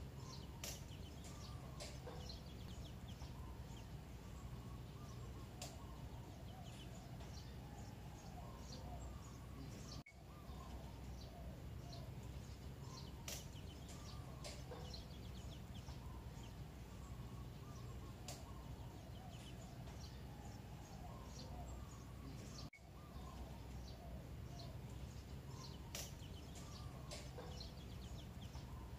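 Birds chirping with short high calls, with lower wavering calls over a steady low rumble. The same stretch of sound repeats about every twelve and a half seconds, with a brief dropout at each join.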